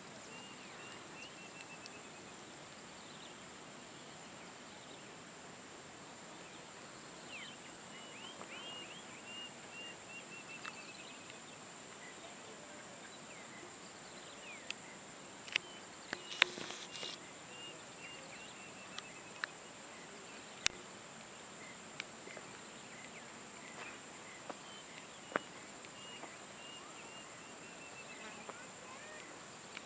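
Rural outdoor ambience: a steady, high-pitched insect drone, with several runs of short repeated chirps and a few sharp clicks, the loudest near the middle.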